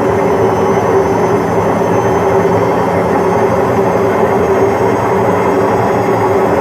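Washing machine on a long spin cycle, drum spinning at high speed: a loud, steady rushing hum with one strong unwavering tone.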